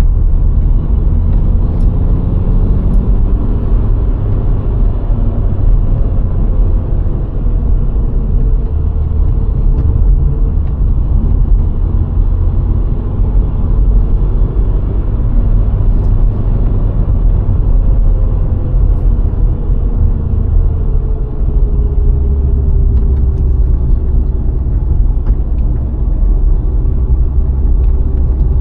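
A 1.6-litre VW Golf IV driving: a steady, loud low rumble of road and engine noise, with a faint engine tone that drifts in pitch and falls slowly a little past halfway.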